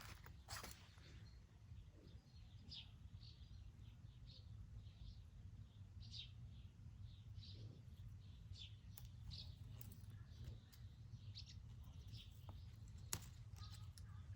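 Small birds chirping faintly, short high chirps every second or so, over a low steady rumble.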